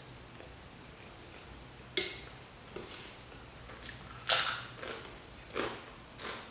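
Close-miked eating sounds: four crisp bites or crunches spaced a second or two apart, the third the loudest, as food is chewed.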